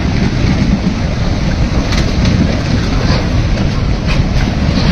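Huayco: a mudflow of muddy water and rock rushing down its channel, a loud, steady rush of noise heaviest in the low end.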